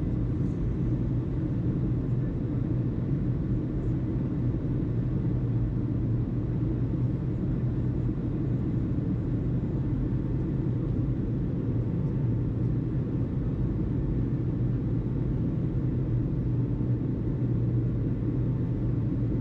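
Steady low rumble with a constant low hum underneath, unchanging throughout.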